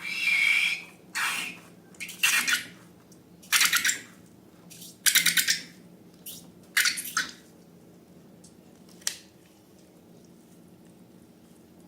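Slime being squeezed and worked by hand: a run of about seven short, crackly, wet squishes, then a single sharp click about nine seconds in.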